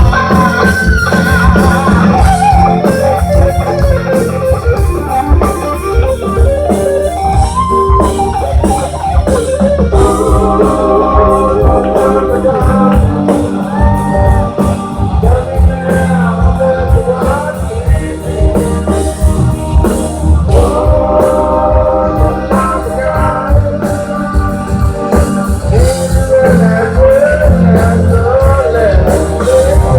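Live rock band playing a song, with electric guitar, bass and drums under a singing voice.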